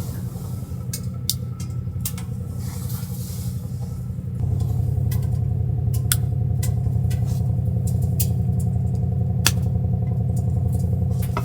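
A small motor hums steadily and gets louder about four seconds in, with scattered sharp ticks over it.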